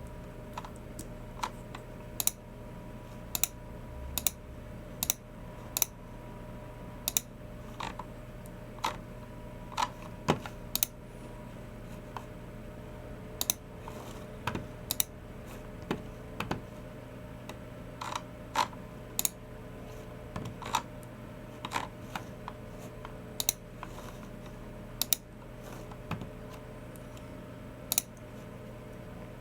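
Unhurried, irregular typing and clicking on a Logicool MX Keys Mini keyboard and a Logicool G304 mouse: scattered sharp clicks about one or two a second, over a steady low hum.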